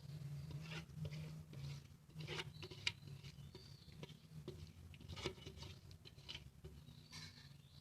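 Faint, scattered scrapes and light taps of a spoon on a bowl as thick sinni is worked in it, over a low steady hum.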